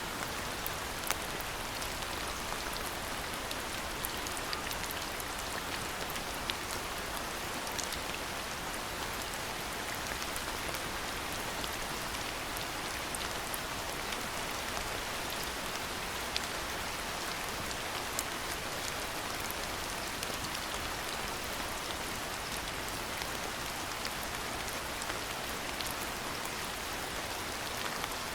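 Steady rain falling, with many sharp ticks of single drops striking close by.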